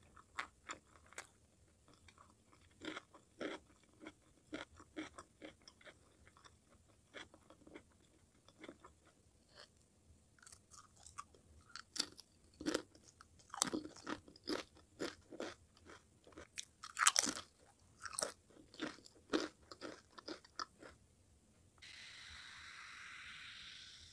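Close-miked eating sounds: soft chewing, then from about halfway through loud, crisp crunching of potato chips bitten and chewed in quick runs. Near the end a steady hiss lasts about two seconds.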